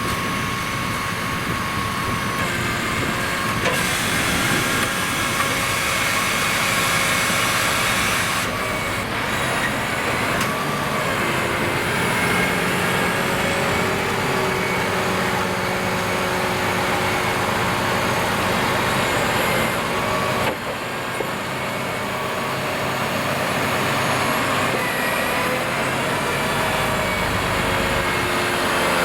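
Delivery truck fitted with a HIAB crane, its engine running steadily to power the crane's hydraulics, its note changing a few times.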